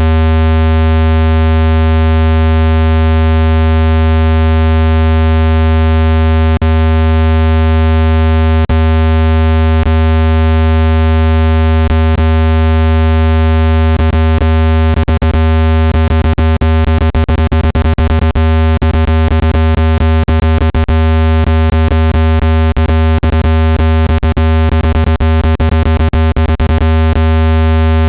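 Loud, steady low-pitched electronic tone rich in overtones, a speaker water-ejection tone played to vibrate trapped water out of a phone speaker. Sharp clicks break in now and then at first, then come thick and irregular from about halfway through.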